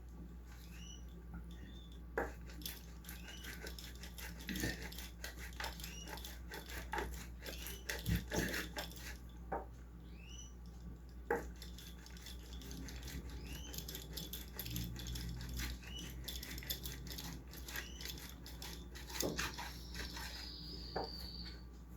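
Faint kitchen handling while food is prepared: scattered light knocks, clicks and rubbing of utensils and dishes, over a low steady hum, with a few short high chirps here and there.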